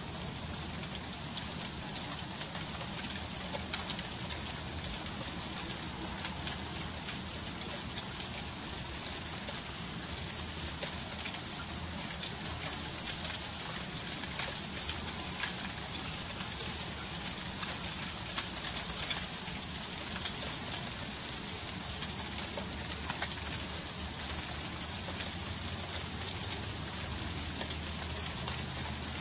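Freezing rain falling steadily in an ice storm, a constant hiss with many small ticks and clicks of drops and ice pellets striking hard surfaces.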